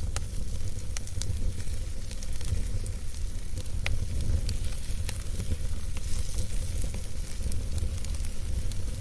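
Campfire crackling: scattered sharp pops and snaps from burning wood over a steady low rumble and soft hiss.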